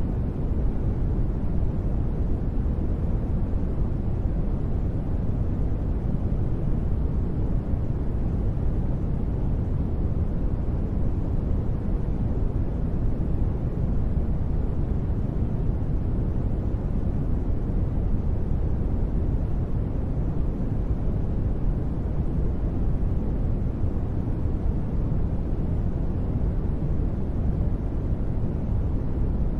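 Steady, continuous sleep noise sold as white noise, with most of its weight in the deep bass and little above the midrange, so it sounds dark and muffled rather than hissy. No changes or sudden sounds.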